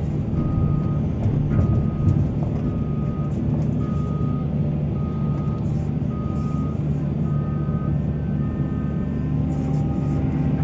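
Heavy diesel mining machinery running steadily, with a back-up alarm beeping about once a second. A second, higher beep joins in after about seven seconds.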